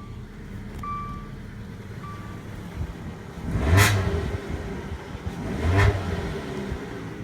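2016 Dodge Dart's four-cylinder engine idling just after a cold start, blipped twice in quick revs that sound snarly, about four and six seconds in. A short beeping chime sounds about once a second in the first two seconds.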